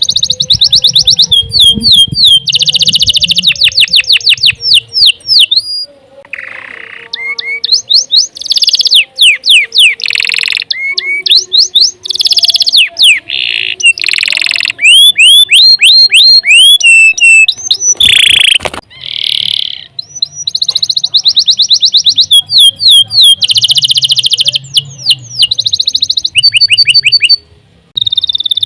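Domestic canary singing a long, continuous song: phrases of fast repeated trills and rolling notes, separated by short pauses.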